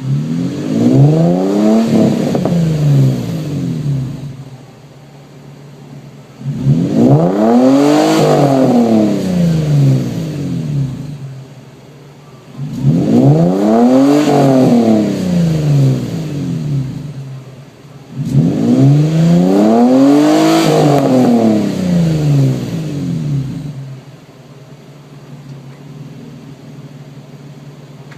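Nissan 350Z's 3.5-litre V6 breathing through an HKS-replica catback exhaust, revved four times: each rev climbs in pitch and falls back over about four seconds, with the engine dropping to a steady idle between revs and near the end.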